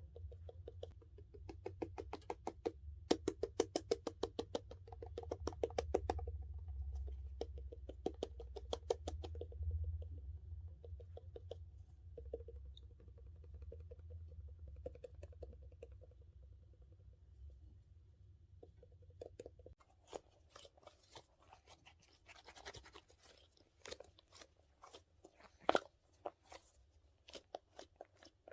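Close-miked handling of a dumpling squishy toy and its plastic: rapid crackly scratching strokes, several a second, that give way about 20 seconds in to sparser, sharper crisp crackles.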